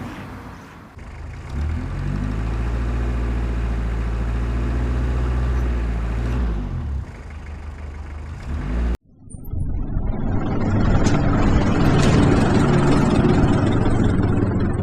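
Heavy logging truck engine running at a steady pitch, shifting pitch a few seconds later. It cuts off abruptly about two thirds in, and a louder, rougher engine rumble fades in and holds.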